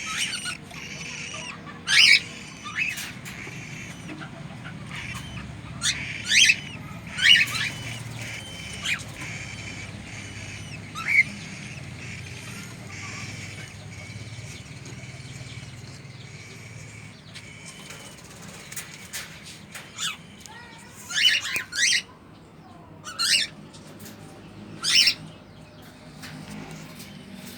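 Cockatiel giving short, sharp squawking calls at irregular intervals, with a low steady background hum.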